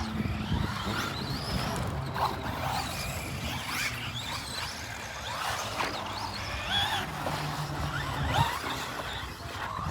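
Electric RC cars being driven, their motors whining up and down in short rising and falling bursts over a low steady hum.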